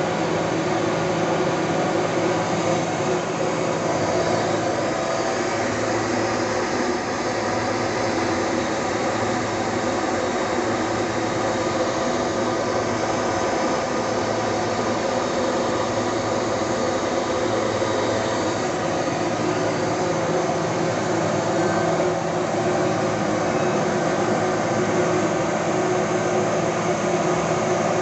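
Detroit Diesel 12V-71 turbocharged two-stroke V12 diesel engine running steadily at a constant speed.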